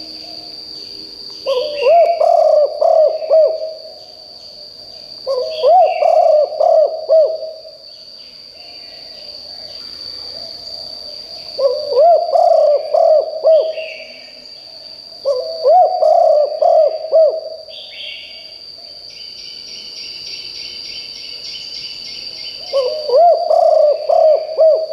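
Spotted dove cooing: five phrases of several low notes each, coming every few seconds. A steady high insect whine and other birds' chirps run underneath.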